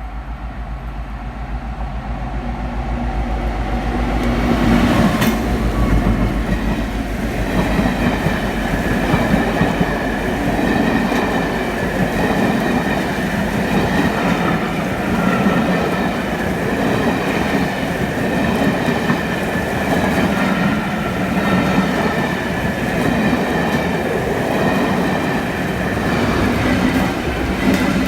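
Rail vehicle running on the track, most likely a tram, building up over the first few seconds and then holding steady as a rumble with a high whine and light wheel clatter.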